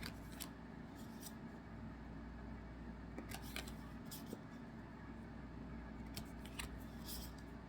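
Trading card packs and cards being handled: faint, scattered short rustles and clicks a second or so apart over a quiet background.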